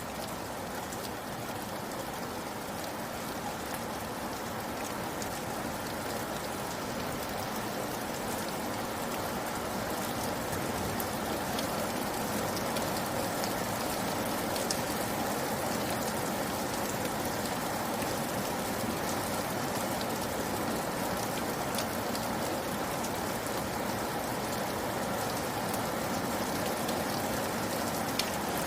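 Steady rain falling, an even hiss with scattered close drop ticks, building slightly over the first ten seconds and then holding steady.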